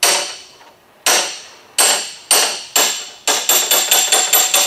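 Light metal-on-metal hammer taps: a pointed hammer held on high spots in a car door panel is struck with a flat-faced hammer, knocking the high spots down. Single ringing taps about every half second to a second, then a quick run of taps about five a second from about three seconds in.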